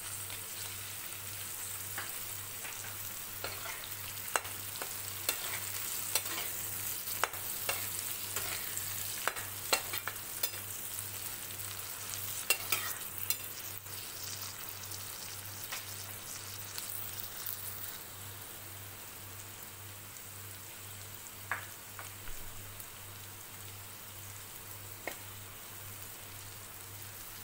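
Diced potatoes and green peas frying in oil in a kadhai, sizzling steadily while a spatula stirs them, scraping and tapping against the pan now and then. About two-thirds of the way through, the sizzle drops somewhat quieter.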